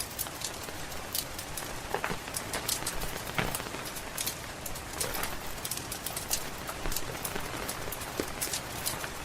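Crackling wood fire with steady rain: a constant rain hiss under frequent sharp crackles, with a few louder pops from the burning logs.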